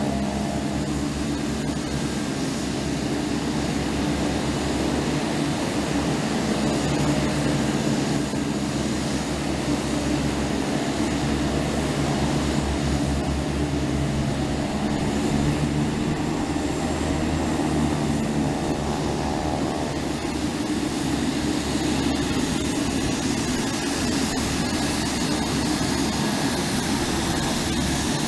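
Aircraft engine running steadily: a continuous drone with a few steady hum tones and a pulsing low rumble underneath.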